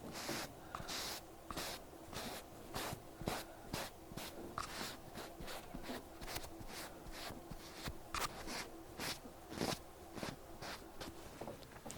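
Cotton pad wiping and rubbing over an ear, a quick run of close, soft scratchy strokes several times a second.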